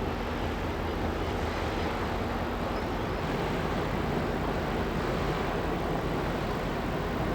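A passing ship's engine running with a steady low drone over a broad even rush of noise.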